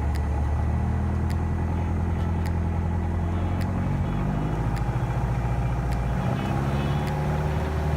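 Piper Archer II's four-cylinder Lycoming engine and propeller running steadily, its pitch shifting slightly partway through, with faint regular ticks about once every second or so.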